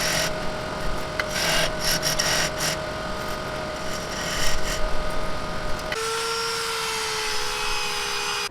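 Power tool cutting and rasping wood while a plug is trimmed flush, running steadily with rough scraping. About six seconds in the sound changes abruptly to a smoother, steady whine that sags slightly in pitch.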